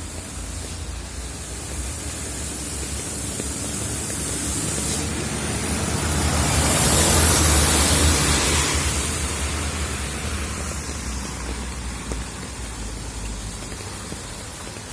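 Steady hiss of heavy rain, swelling to a peak about halfway through and fading again, with a low rumble underneath.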